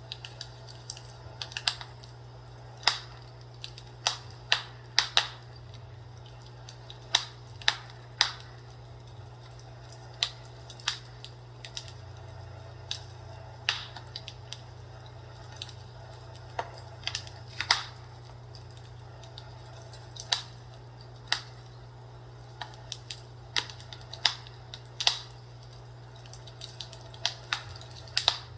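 Fireplace crackling: irregular sharp pops and snaps, about one or two a second at uneven intervals, over a steady low hum.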